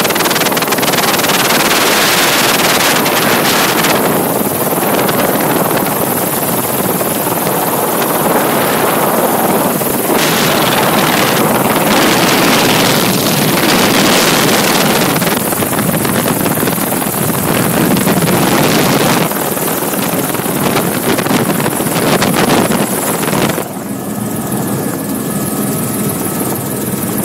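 Airbus/Eurocopter AS350 Écureuil helicopter running, a loud steady rotor and turbine noise with gusts of wind on the microphone. About 23 seconds in, the sound drops a little and a steady high whine comes through.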